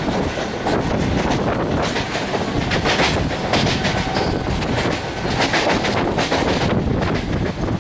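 Mumbai suburban electric local train running at speed, heard from on board: a steady rushing rumble with the wheels clattering over rail joints, the clatter coming in quick runs of clicks about three and five and a half seconds in.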